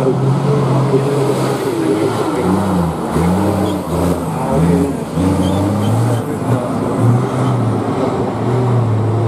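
Competition truck's diesel engine running under heavy load, its pitch rising and falling repeatedly as the driver works the throttle on the off-road course.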